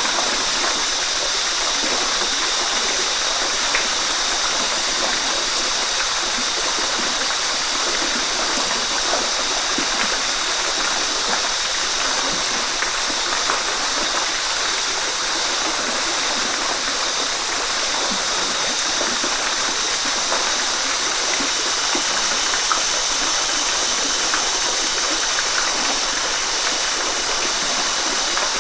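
Waterfall: water falling and splashing in a steady, even rush, mostly high-pitched with little low rumble, and small splashes scattered through it.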